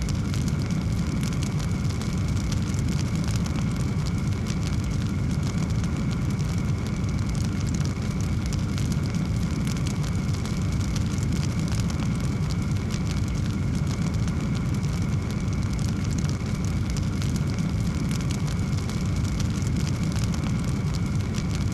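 Wood fire burning in a fireplace: a steady low rumble with quick irregular crackles throughout.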